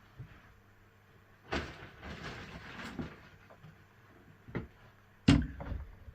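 Damp topsoil and coir substrate being mixed and scooped by hand: a rustling scrape lasting about a second and a half, then a knock and, near the end, one sharp thump.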